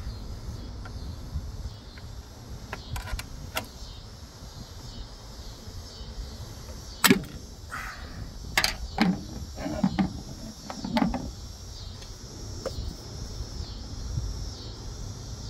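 A few sharp clicks and clunks as a car's brake master cylinder reservoir cover is opened and handled, the loudest about seven seconds in and a cluster between nine and eleven seconds. Crickets chirp steadily underneath.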